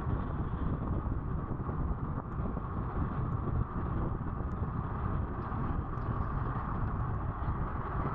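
Wind buffeting the microphone during a ride on a Honda Activa scooter, a steady rumble over the running noise of the moving scooter and road.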